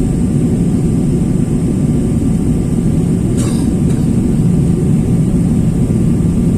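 Steady low rumble of a jet airliner heard from inside the cabin, engine and airflow noise with a thin high hiss above it. About three and a half seconds in, a brief faint falling whistle passes over it.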